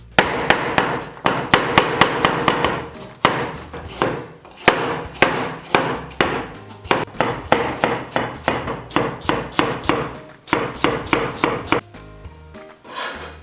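Knife chopping quickly on a wooden cutting board, several sharp strokes a second in runs with brief pauses, stopping shortly before the end.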